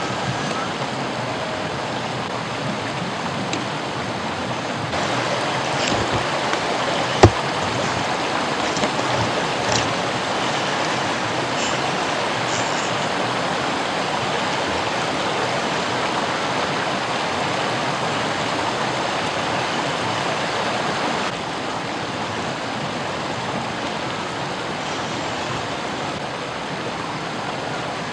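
Flowing river water rushing over rocks, a steady even rush that is louder through the middle stretch. A single sharp knock sounds about seven seconds in, with a few lighter clicks after it.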